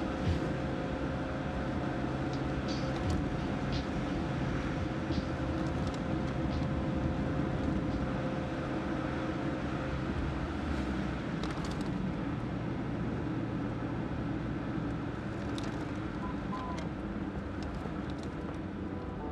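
Car engine and road noise heard from inside the cabin of a Mazda MX-5 Miata cruising uphill at a steady pace. The engine note changes about ten seconds in.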